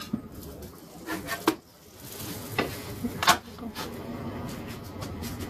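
Kitchen utensils and dishes being handled: a handful of sharp knocks and clinks, spaced irregularly, over a low background clatter.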